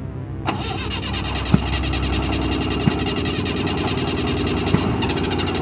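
Datsun Roadster engine being cranked on the starter, not catching, with a few sharp pops: backfiring through the carburetor. The driver puts it down to the engine being really hot, and his friend thinks the ignition timing is probably off.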